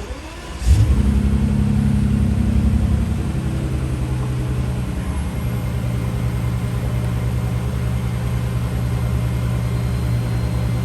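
A 2011 Bentley Continental GTC Speed's twin-turbo 6.0-litre W12 engine starts up about a second in. It flares loud for the first couple of seconds, then settles to a steady idle.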